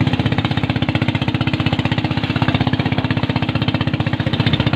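Motorboat engine running steadily, a rapid, even pulsing with a low hum.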